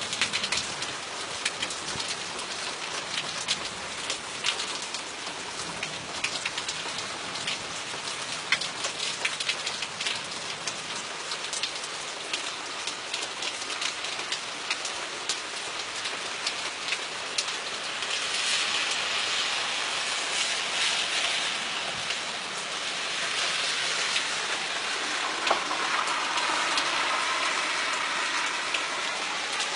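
Steady rain falling, with many sharp taps of drops striking a nearby surface. A little past halfway the rain's hiss grows louder and brighter, as if the downpour picks up.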